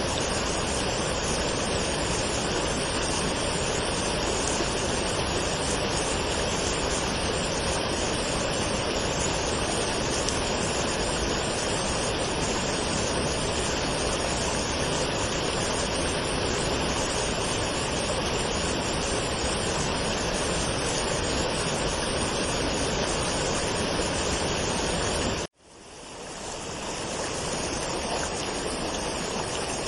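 Waterfall water rushing steadily. About 25 seconds in the sound cuts out abruptly and fades back in over a couple of seconds, the join of a looped recording.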